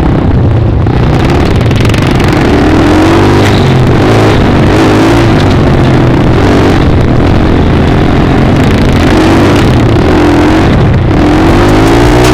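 Dirt bike engine revving up and down as it is ridden, its pitch rising and falling every second or two, under a loud steady rush of noise.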